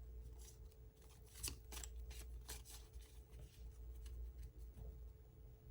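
Tarot cards being handled: a quick run of papery flicks and snaps, most of them in the first three seconds and a few more near the end, over a faint steady hum.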